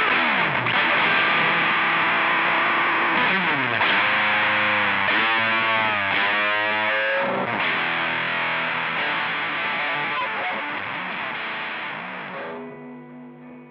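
Electric guitar played through a Rowin LEF-606 fuzz pedal: a thick, fuzzy distorted tone with notes sliding and bending in pitch. Near the end a last chord is left ringing and fades away.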